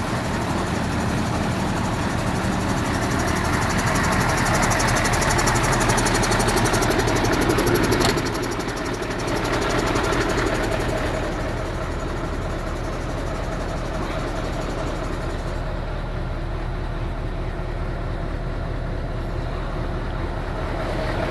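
Diesel engine of a Mercedes-Benz SK 1853 tractor unit running with a steady low hum. It grows louder for several seconds, then falls away suddenly with a click about eight seconds in and carries on steadily at idle.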